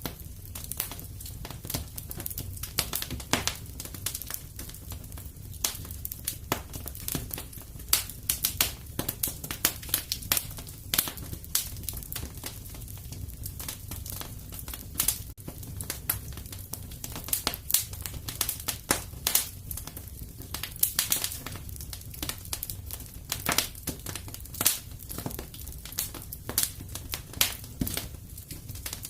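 Wood fire crackling and popping, with frequent irregular sharp snaps over a low steady rumble of flames.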